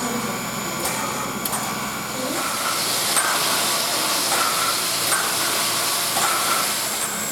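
Steam hissing from the Er-class steam locomotive Er 799-18. A steady hiss sets in about two seconds in and holds.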